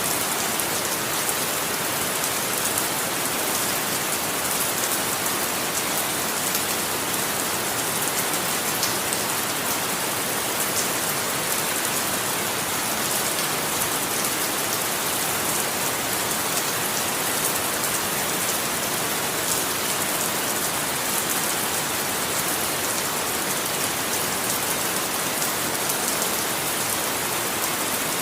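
Steady rain falling, an even hiss of drops striking a surface, with fine drop ticks, no rises or breaks.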